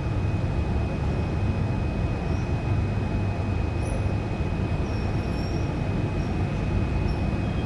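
Steady low background rumble with a thin constant high whine, and only a few faint, brief high chirps from canaries; no full song.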